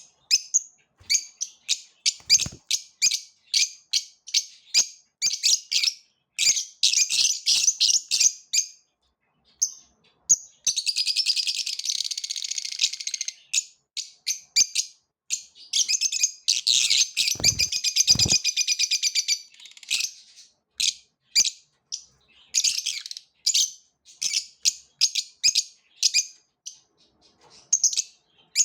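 Small birds chirping in quick, repeated short high chirps, with two longer runs of fast, continuous chirping, one about ten seconds in and one about sixteen seconds in. A few brief low thumps come about two seconds in and again near eighteen seconds.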